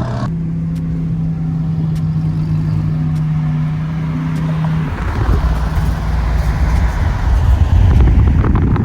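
Car engine with a steady low drone, then a louder, deeper rumble building over the last few seconds.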